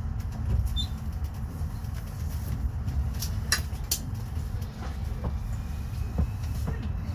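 Regional train rolling slowly into the station, heard from inside the carriage: a steady low rumble of the wheels and running gear, with a few short sharp high-pitched sounds from the wheels or brakes about three and a half seconds in.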